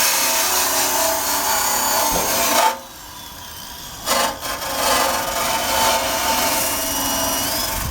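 Corded electric drill running a wire brush against the steel frame, scraping off rust. It stops for about a second a little under three seconds in, then starts scrubbing again.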